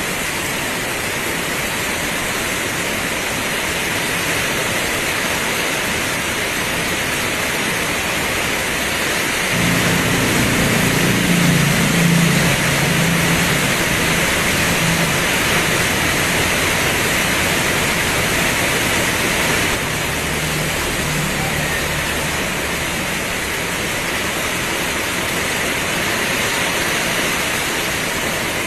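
Heavy rain pouring in a steady, even hiss. About ten seconds in, a low rumble comes in under it, swells, and fades out over roughly ten seconds.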